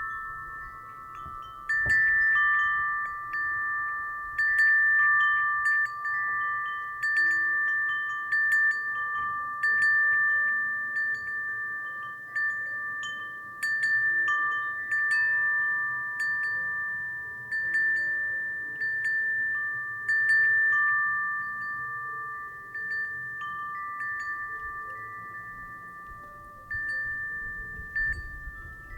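Wind chime ringing in the breeze: struck every second or two, its clear high tones ring on and slowly fade between strikes.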